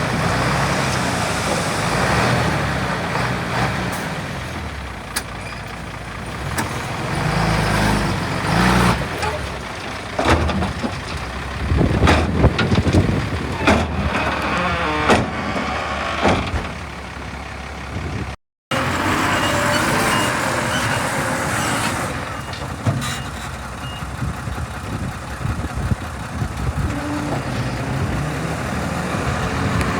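Heavy diesel earthmoving machinery running and working, with a run of clanks and knocks in the middle. The sound cuts out for an instant about two-thirds of the way through, then the engine noise carries on.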